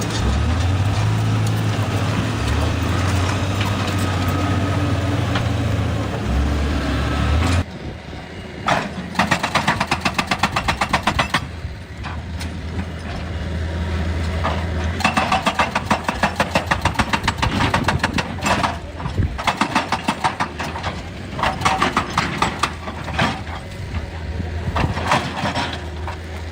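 Excavator working: its diesel engine runs steadily and loudly, then an abrupt change about seven seconds in gives way to repeated bursts of rapid, rhythmic clattering over a lower engine hum.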